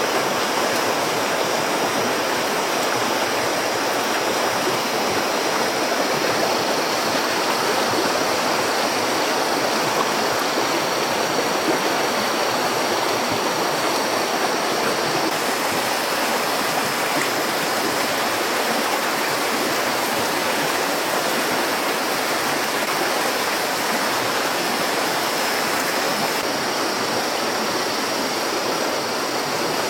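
Steady rushing of running water, with a thin high-pitched whine over it.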